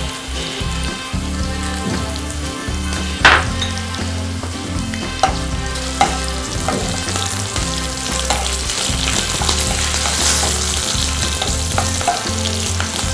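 Green chillies, dried red chillies and curry leaves sizzling in hot oil in a nonstick kadai as a wooden spatula stirs and scrapes them around the pan. A few sharp clicks stand out, the loudest about three seconds in.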